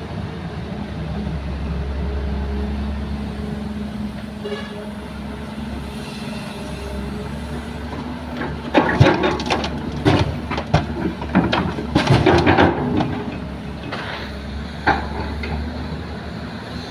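Excavator diesel engine running steadily, with a burst of loud metallic clanking and rattling about halfway through lasting several seconds, and one more clank near the end.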